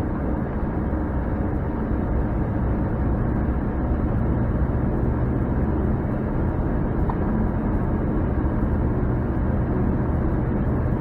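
Truck engine and road noise while driving with a trailer carrying a tractor in tow: a steady low hum.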